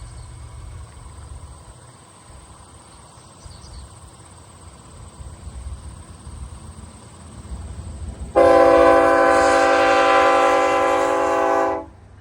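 Locomotive air horn sounding one long, steady blast that starts suddenly about eight seconds in and lasts about three and a half seconds. Before it there is only a low rumble and a thin, steady high-pitched drone.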